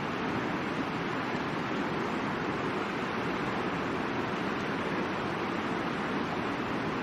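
Middle Fork of the Boise River rushing in a steady, unbroken flow.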